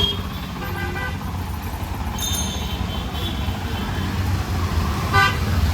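Street traffic: a steady low engine rumble from passing vehicles, with a short horn toot about five seconds in.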